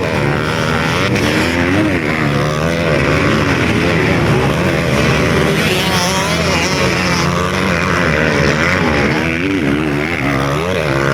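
Several trail or motocross motorcycle engines running at once, their pitch rising and falling as the riders work the throttles.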